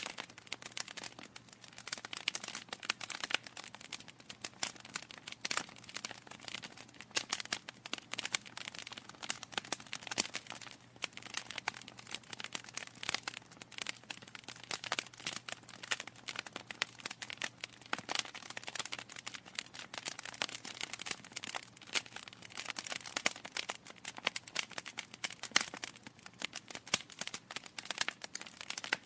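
Wood fire crackling continuously, with dense irregular pops and snaps from burning logs.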